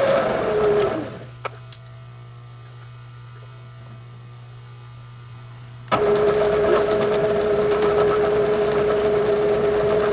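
Milling machine running with a steady whine that winds down and drops in pitch about a second in, leaving a low hum and a couple of light clicks; near six seconds the machine is running again, abruptly and at a slightly lower steady pitch.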